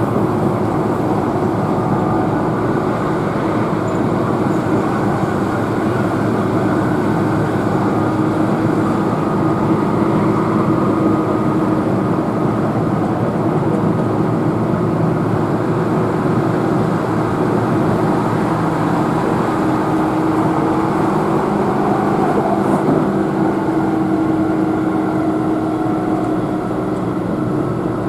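Keihan electric train running at steady speed, heard from inside the carriage: a continuous rumble of wheels on rail with a steady low hum.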